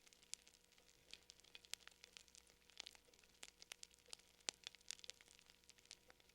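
Wood fire crackling faintly, with irregular sharp pops and snaps, several a second.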